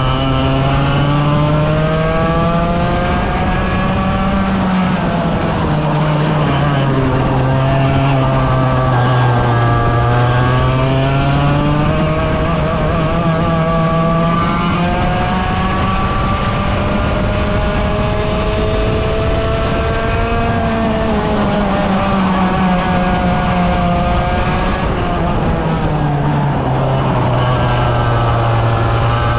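A 100cc two-stroke racing kart engine running hard around a circuit, its pitch climbing under acceleration and dropping back several times as it lifts and brakes for corners.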